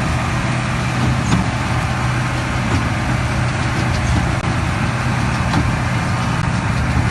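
Massey Ferguson 7618 tractor engine running steadily under load with the MF big baler, a steady low hum, 'a nice song'.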